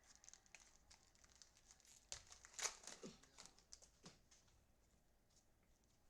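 Faint crinkling and rustling of foil card packs and cards being handled, with small clicks and a louder crinkle about two and a half seconds in, quieter over the last couple of seconds.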